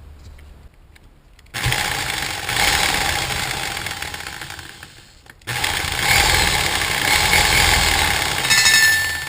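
Craftsman 6.5 amp corded reciprocating saw running on the trigger in a function test after its broken cord wire was repaired: the motor starts about a second and a half in, runs about four seconds, cuts off sharply, then starts again at once and runs to the end. It runs steadily with no cut-outs, showing the repair works.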